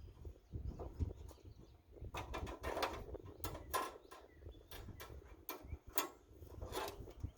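Metal clanks, knocks and scrapes of the sawmill's parts and a wrench being handled as the bandsaw blade change begins, a string of sharp hits from about two seconds in.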